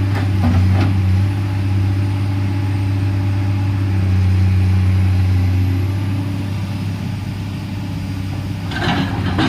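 Komatsu PC210LC hydraulic excavator's diesel engine running steadily under load. Near the end there is a short burst of clattering and scraping.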